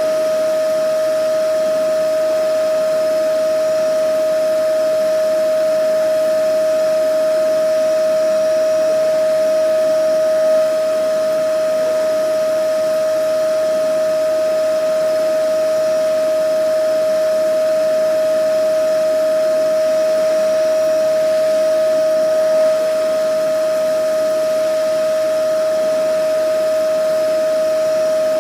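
Vacuum cleaner running steadily: a constant high whine over an even rushing hiss.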